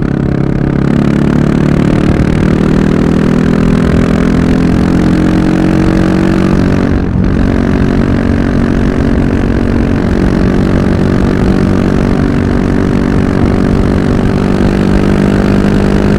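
Yamaha MT-03's 660 cc single-cylinder engine under way, its pitch climbing as the bike accelerates. It dips briefly at a gear change about seven seconds in, then runs fairly steady.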